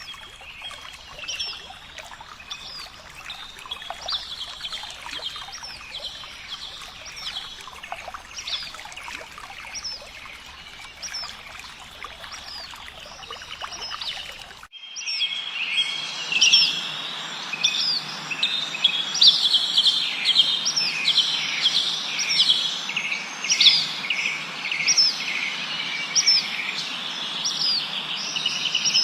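Many small songbirds chirping and twittering in short repeated notes over a steady background hiss. About halfway in the sound changes abruptly to a louder, denser chorus of chirps.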